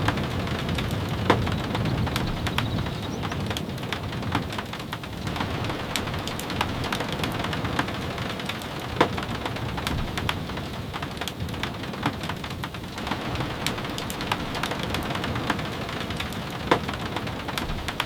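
Steady rain falling, with sharp, irregular crackling pops from a wood fire scattered through it.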